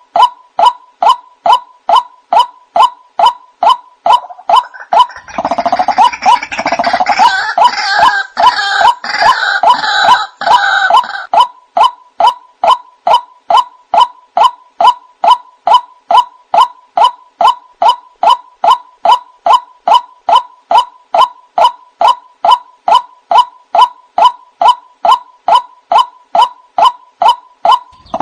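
White-breasted waterhen (ruak-ruak) calling: a steady, repeated call about twice a second. From about five seconds to about eleven and a half seconds, a louder, harsher run of croaking calls is layered over the steady rhythm.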